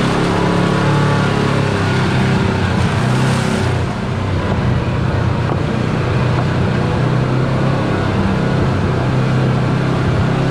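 Side-by-side UTV engine running steadily under way on a dirt trail, with a constant engine note and a brief easing about four seconds in.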